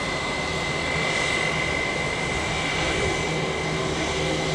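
Jet airliner engines running steadily, a constant rushing noise with a high steady whine.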